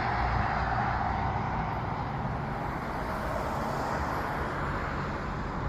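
Steady outdoor traffic noise: a continuous even hiss with a low rumble underneath.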